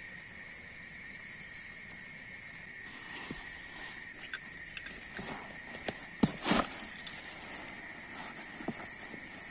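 A steady, high insect chorus in the forest. From about three seconds in there is rustling and a few sharp knocks, with the loudest knocks about six seconds in.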